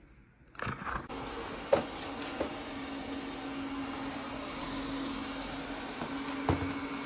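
A steady mechanical hum with one low steady tone, starting about half a second in, with a few short clicks or knocks over it.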